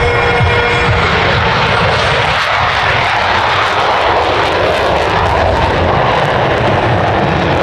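An airplane's engine, a loud, steady rush of noise.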